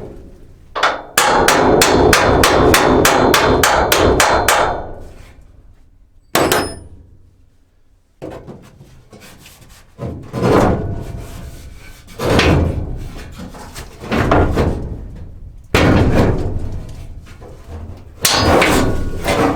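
A hammer striking metal to knock out a stuck part: about a second in comes a quick run of rapid blows, roughly five a second for three seconds, then single heavy blows about every two seconds.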